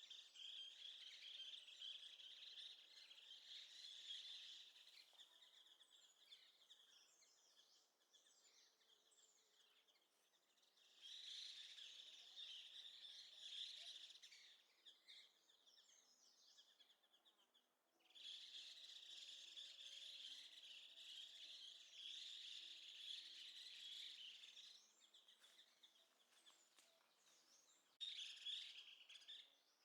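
Faint, dense high-pitched chirping chorus that swells in four bouts of a few seconds each and falls away between them.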